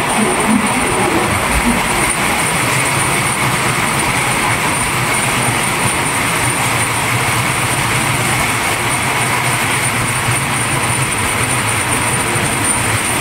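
Steady rushing noise of a train in motion, heard from a carriage window, with a steady low hum underneath.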